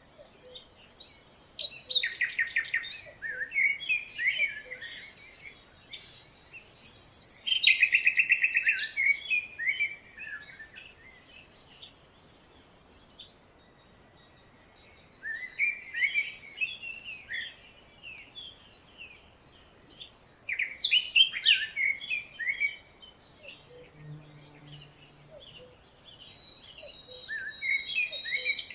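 Several songbirds singing and chirping in bursts, with fast trills and quieter pauses between phrases.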